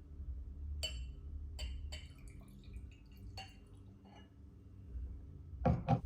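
Small hard objects being handled: a few light clinks, the first with a brief glassy ring, then a louder knock near the end.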